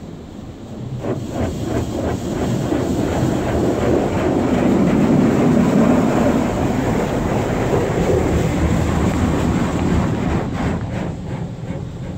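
High-pressure water jets of a D&S 5000 automatic car wash spraying against the car, heard from inside the cabin. A loud, steady rushing that builds over the first few seconds, is loudest in the middle and eases off toward the end.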